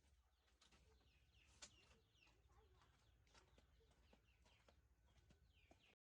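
Faint bird calls: many short, high, falling chirps with a few clicks among them, cutting off suddenly near the end.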